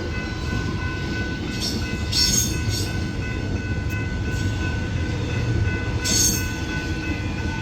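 An X'Trapolis 100 electric suburban train passes over a level crossing with a steady low rumble of wheels on rail. The crossing's General Signal Type 3 electronic bells ring throughout as steady tones. There are two brief high hissing bursts, about two and six seconds in.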